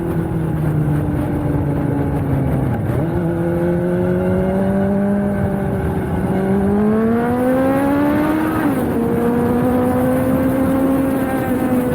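Suzuki GSX-S750's inline-four engine through a Yoshimura Alpha T slip-on exhaust, pulling on a mountain road. Revs ease off and a quick gear change comes about three seconds in. The engine then accelerates, rising in pitch, and a sharp upshift drops the revs at about nine seconds before it settles to a steady pull.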